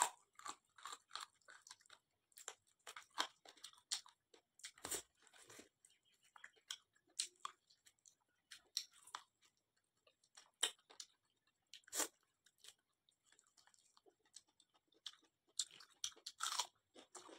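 Close-up mouth sounds of a person eating mutton ribs: chewing and biting meat off the bone, with wet mouth clicks and crunches. They come irregularly, with a couple of louder crunches about five and twelve seconds in.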